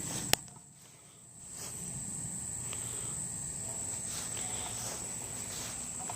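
Insects chirring in a steady high-pitched drone, with one sharp click about a third of a second in.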